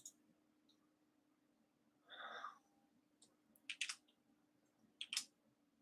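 Near silence with a few faint computer mouse clicks, a pair about four seconds in and another near the end. There is also a soft breath about two seconds in.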